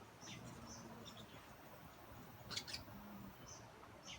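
Faint, short, high-pitched squeaky chirps of hummingbirds, a few near the start and a sharper pair about two and a half seconds in, over a quiet background hiss.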